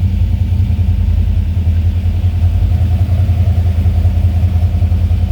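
Car engine idling steadily: a low, even hum with a fine pulsing beat that holds unchanged throughout.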